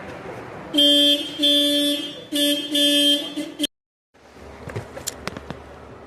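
A car horn sounds in four short blasts, one after another, then cuts off abruptly. A few light clicks follow.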